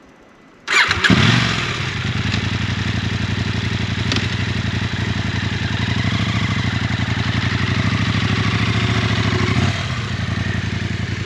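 KTM adventure motorcycle's engine starting a moment in, catching with a short rise in level, then running steadily at idle; the level drops slightly near the end.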